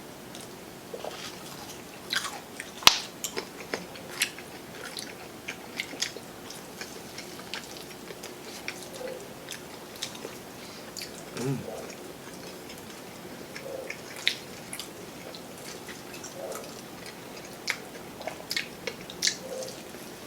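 Close-up eating sounds: chewing and biting, with many scattered small clicks and smacks of the mouth.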